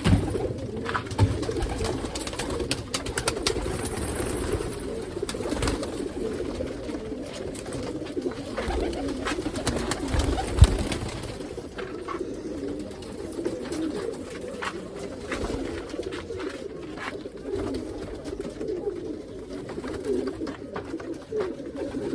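Many domestic pigeons cooing together without a break in a loft. Scattered clicks and one sharp knock about halfway through.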